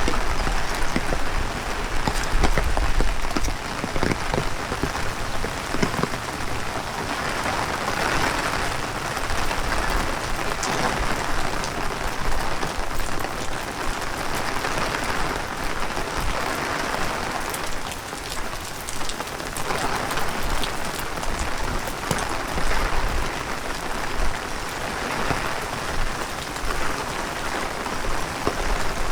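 Heavy rain falling on pavement and surfaces: a dense, steady hiss full of small drop ticks. Gusts of wind buffet the microphone in places, most strongly in the first few seconds.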